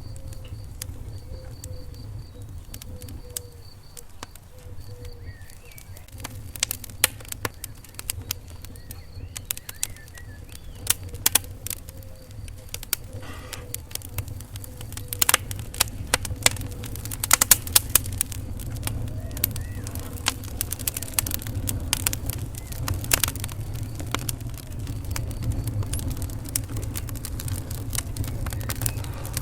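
Wood fire in a fireplace crackling, with irregular sharp pops that come thickest in the middle stretch, over a low steady rumble.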